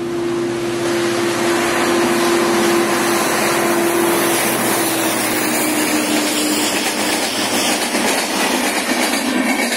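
Diesel-hauled express passenger train running past at speed. The diesel locomotive's rumble carries a steady tone that drops slightly in pitch as it goes by, about halfway through. Then come the rushing and rattling of the passenger coaches' wheels on the track.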